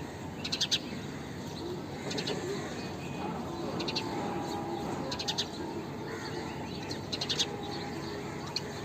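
House sparrows chirping in short bursts of quick high chirps, about every second or two, over steady low background noise.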